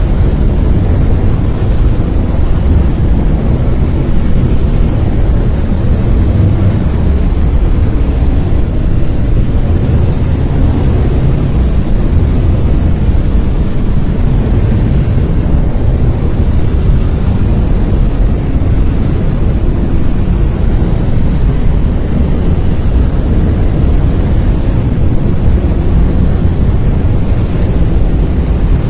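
Brown noise: a steady, loud, deep rumbling hiss, heaviest in the bass and thinning toward the top, with no tones, rhythm or events.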